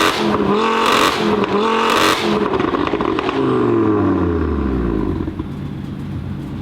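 Nissan Skyline R33's built, turbocharged RB25DET straight-six revved hard three times, about once a second, with a burst of hiss at each peak. The revs then fall away and it settles to a low steady run.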